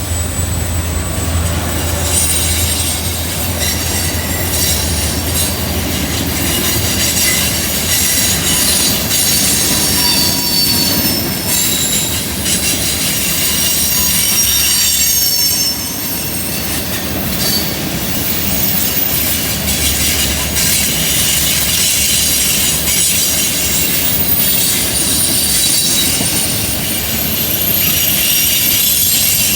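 Freight train rolling through a curve, its steel wheels squealing against the rail in many high, wavering tones over a steady low rumble of the passing cars.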